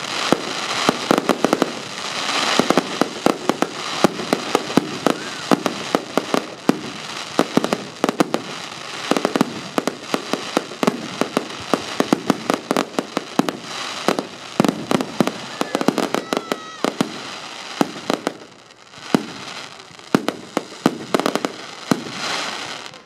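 Fireworks going off in a rapid, continuous barrage of sharp bangs and crackles, thinning out briefly near the end before another cluster.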